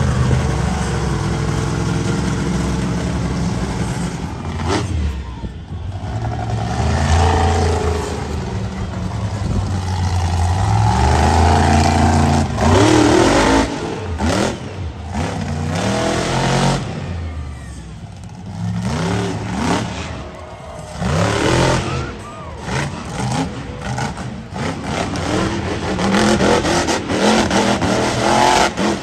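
Monster truck engine revving hard, its pitch climbing and falling as the throttle is repeatedly opened and lifted, with several brief drops in level.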